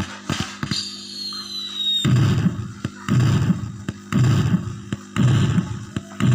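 Fireworks sound effect: a high whistle falling in pitch, then a string of deep booming bursts about once a second, over a steady low hum.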